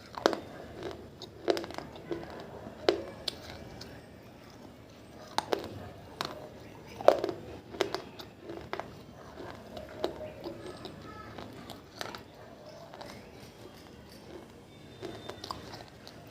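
Mouth biting and chewing pieces of a water-soaked baked clay diya: irregular sharp crunches and cracks, with softer crunching between them and the loudest crack about seven seconds in.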